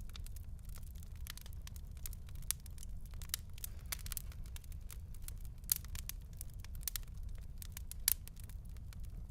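Wood fire crackling: irregular sharp pops and snaps over a steady low rumble of the flames, with the loudest pops about six and eight seconds in.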